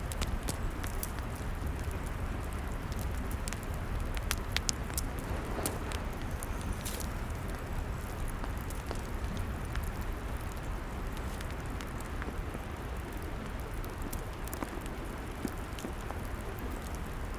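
Log fire crackling: irregular sharp pops and snaps over a steady low hiss and rumble.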